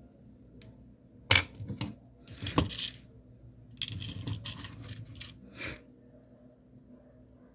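Small hard pieces, beads and metal earring findings, clicking and clinking as they are handled during bead jewellery making: a couple of sharp clicks, then a quick run of rattling clicks.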